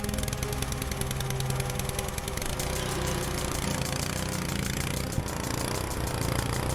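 Small gasoline engine of a pressure washer running steadily, firing in a fast, even rhythm.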